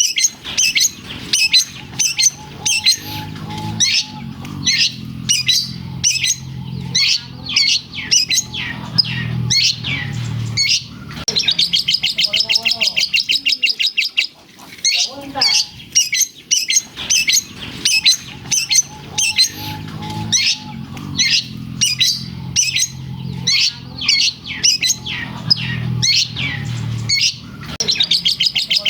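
Long-tailed shrike singing loudly and nonstop, a rapid run of sharp chirps and squawky calls with a fast buzzing trill around the middle, its song filled with mimicked lovebird calls.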